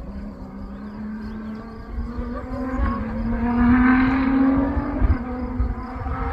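A rally-raid competitor's engine approaching under load. Its note climbs slightly and grows louder to a peak about four seconds in, then eases off.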